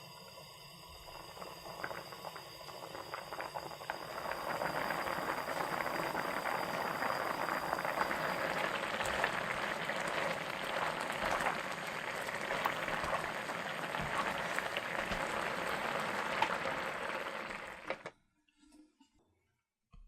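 Food cooking in a hot pan: a steady hiss with many small crackles that builds over the first few seconds, holds, and cuts off suddenly near the end.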